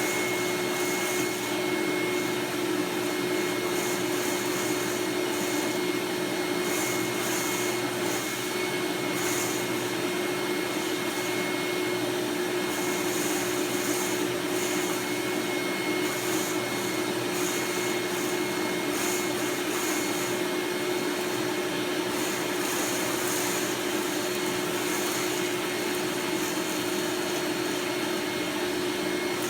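Eureka "The Boss" Mighty Mite II canister vacuum cleaner with its 7-amp motor running steadily, with a high-pitched whine over the motor drone. The upper air hiss swells and fades now and then.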